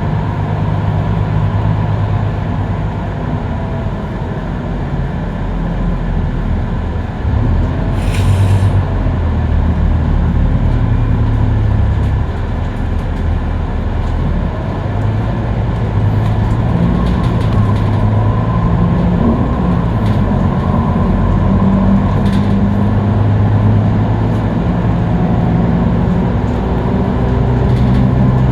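A Scania K310UB bus's five-cylinder diesel engine and drivetrain running steadily at freeway speed, a low drone with a faint whine. A short, sharp rattle comes about eight seconds in.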